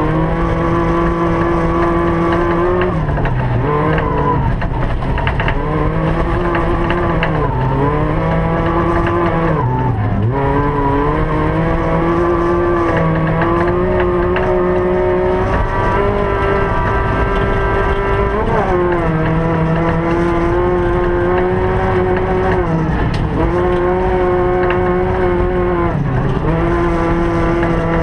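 Rally car engine heard from inside the cabin, running hard on a flat-out ice sprint, its pitch climbing, holding and then dropping sharply several times as the driver works through the gears and lifts for corners.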